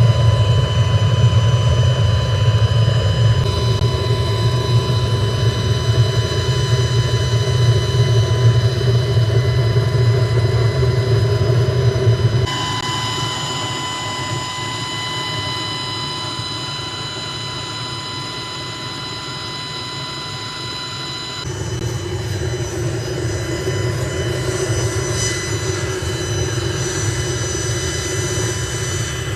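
Factory machinery running steadily: a loud low hum with a high whine of several steady tones on top. The mix of the sound changes abruptly about twelve and twenty-one seconds in.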